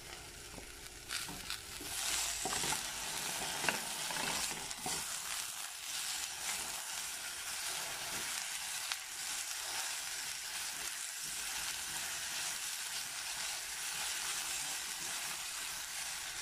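Sliced Tuscan sausage, tomato and yellow pepper sizzling in a saucepan while being stirred with a silicone spatula. The sizzle gets louder about two seconds in, as the fresh vegetables hit the hot pan, with a few light knocks of the spatula against the pot.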